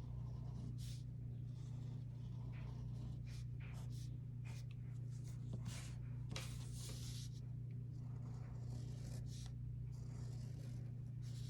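Fine-point Sharpie marker drawn in short strokes over watercolor paper, a faint scratchy sound in irregular bursts, over a steady low hum.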